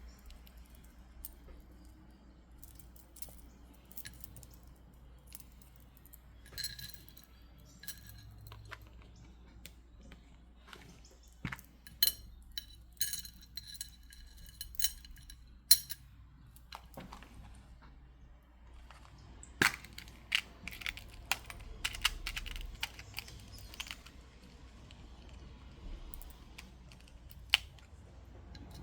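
Polished stone beads, black tourmaline and clear quartz, clicking and clinking against each other as they are handled while a bracelet is restrung. The light taps come in scattered clusters with quiet gaps between.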